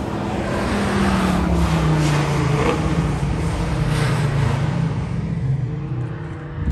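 A muscle car driving past under power, its engine growing louder over the first second, holding, then fading away near the end.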